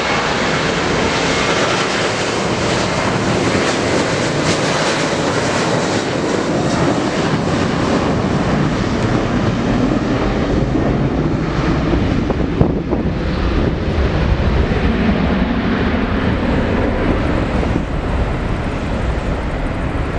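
Jet aircraft engines running loud and steady. The high hiss thins out in the second half while a low rumble grows.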